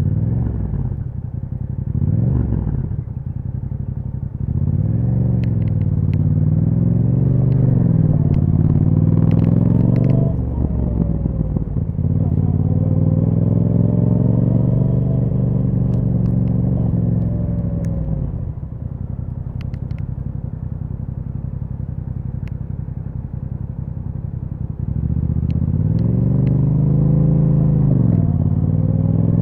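2021 Yamaha MT-07's 689 cc parallel-twin engine through an Akrapovic exhaust with a dB killer, on the move. The revs climb and drop back sharply about ten seconds in and again near eighteen seconds. They then hold lower and steadier for several seconds before climbing again near the end.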